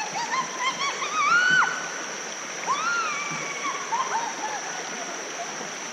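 Creek water rushing over a small drop rapid, with a steady high insect buzz and a run of high, gliding animal calls over it, loudest about a second and a half in.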